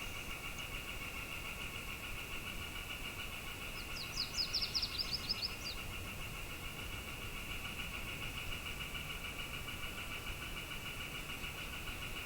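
A steady, high, finely pulsing two-toned buzz runs throughout. About four seconds in, a bird gives a quick run of about ten chirps lasting under two seconds.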